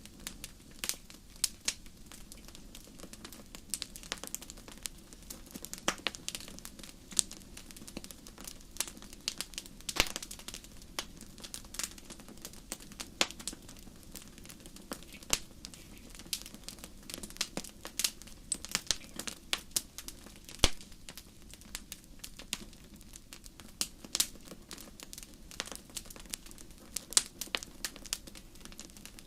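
Wood fire crackling and popping, with many sharp, irregular pops over a low steady hiss of burning.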